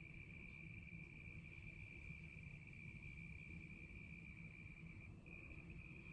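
Faint, continuous high trill of a cricket, broken once briefly about five seconds in, over a low background rumble.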